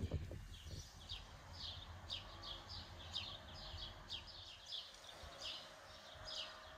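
A small songbird chirping over and over: short, high chirps that slide downward, about two to three a second. There is a soft low knock right at the start.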